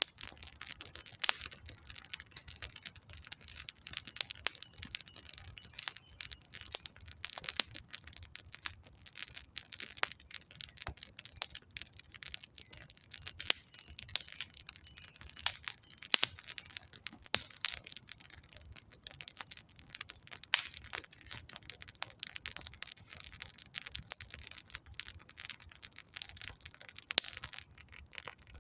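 Wood campfire crackling, with dense irregular pops and snaps throughout.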